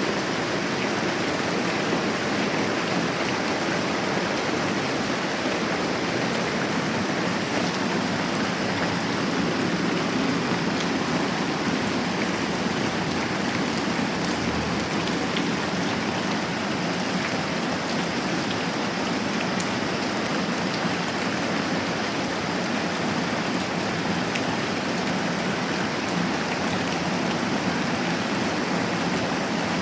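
Steady moderate rain falling, an even, unbroken rushing hiss with a few faint ticks here and there.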